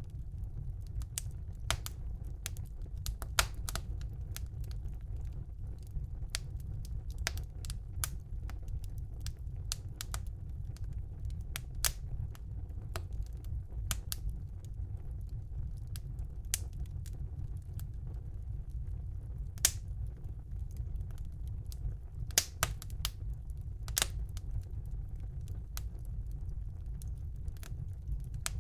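Fire burning in a fireplace: irregular sharp crackles and pops over a steady low rumble, with a few louder pops scattered through.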